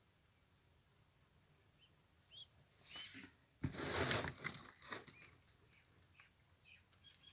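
Pigeon wings flapping in a brief loud burst about halfway through, after two short high chirps, followed by softer rustling and clicks.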